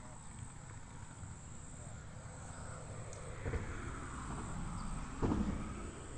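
Crickets chirping in a steady high trill. Two dull low thumps about three and a half and five seconds in.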